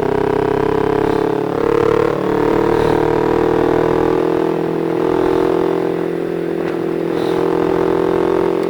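Motorcycle engine running at a steady cruise in sixth gear, its pitch holding nearly level with small dips and rises in speed.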